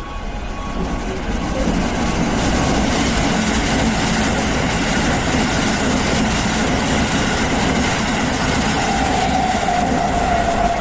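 A Keisei stainless-steel commuter train passes through the station without stopping. The rumble of wheels on rail builds over the first two seconds, then holds steady and loud, and a steady whine comes in near the end.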